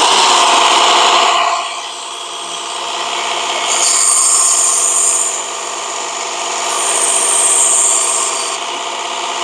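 Work Sharp Ken Onion Edition electric belt sharpener running steadily, with a knife blade drawn across the abrasive belt twice, giving a high hiss about four seconds in and again about seven seconds in.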